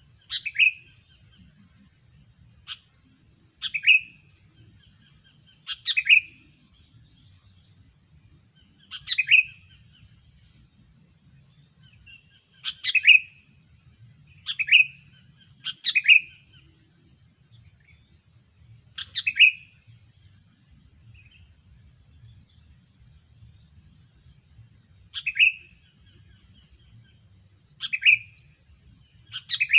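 Sooty-headed bulbul (kutilang) calling: a dozen or so short, sharp calls, spaced irregularly every one to three seconds, with a longer pause about two-thirds through.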